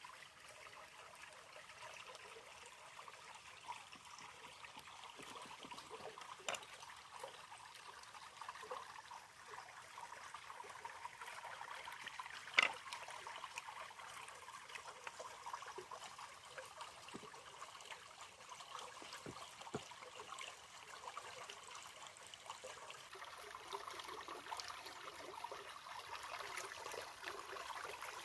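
Faint, steady trickle of running water, with a few scattered light clicks or knocks, the sharpest about twelve seconds in.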